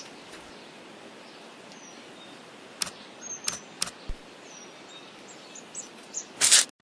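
Outdoor background noise with a few faint, short falling bird chirps and several sharp clicks scattered through the middle. Near the end comes a brief, louder rush of noise.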